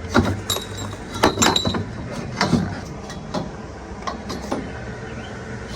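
Steel roll cage tubing being handled and set in place: a series of metal clanks and clinks. One strike rings on briefly about half a second in.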